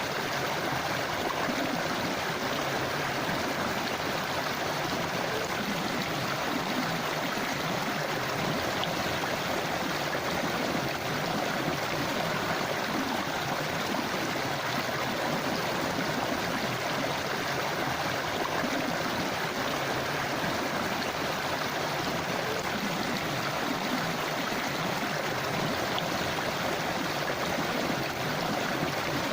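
Forest river or stream flowing over rocks, a steady rushing and babbling of water without a break.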